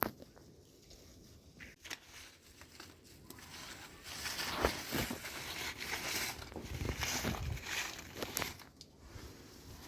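Crinkling and rustling handling noise that gets louder about halfway through, with a few sharp cracks and low thumps mixed in.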